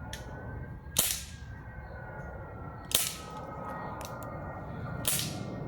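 Three pistol shots about two seconds apart, each a sharp crack with a short echoing tail.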